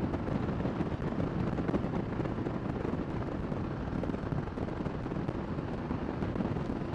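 Kawasaki Vulcan 1600 Nomad's V-twin engine running steadily while cruising, mixed with wind rushing over the microphone.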